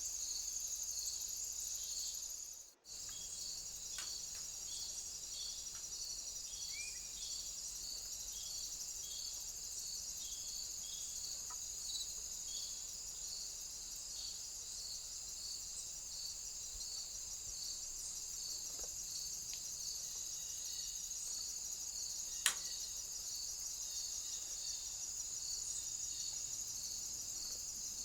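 Insects chirping steadily: a continuous high-pitched trill with a pulsing chirp about twice a second. The sound drops out briefly near 3 seconds in, and there is one sharp click about 22 seconds in.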